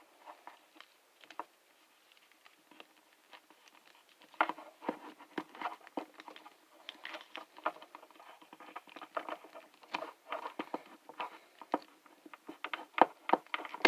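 Small hard plastic clicks, taps and rubs as a plastic action figure and its nunchaku accessory are handled and pressed into the figure's hand. The clicks come only now and then at first, then quick and irregular from about four seconds in.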